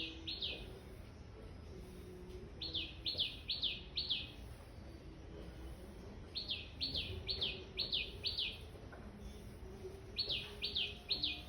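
A songbird singing short phrases of quick, high notes, each note sliding downward in pitch. It repeats them two to six at a time, with pauses of a second or two between phrases.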